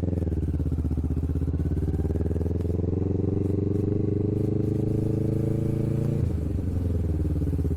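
Kawasaki Vulcan S parallel-twin engine running through an aftermarket Hoonk twin exhaust while riding, its note climbing gradually as it accelerates, then dropping suddenly about six seconds in.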